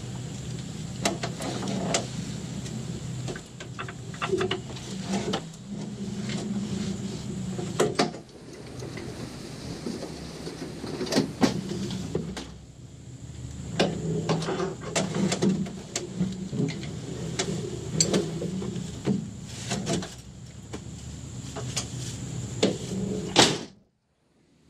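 Hyundai Excel race car's engine idling with a steady low hum, under irregular clicks, knocks and rattles from inside the cabin. The loudest knock comes near the end, just before everything cuts off suddenly.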